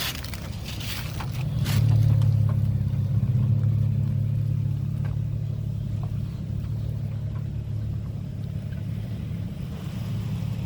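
2010 Toyota Tacoma TRD Off Road's engine running steadily at low revs while the truck crawls an off-road trail. It grows louder about two seconds in, with a few sharp clicks or knocks in the first couple of seconds.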